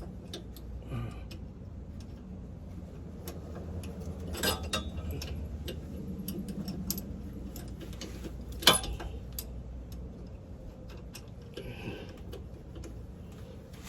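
Scattered light clicks and taps of metal suspension hardware being handled and fitted by hand, with one sharper click a little before nine seconds in, over a steady low hum.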